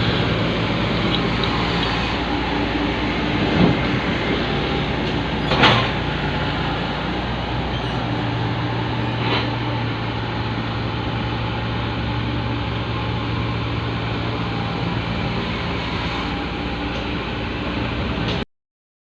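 Engine of a mini excavator or dump truck running steadily, with a few short knocks of the machine working; the sound cuts out suddenly near the end.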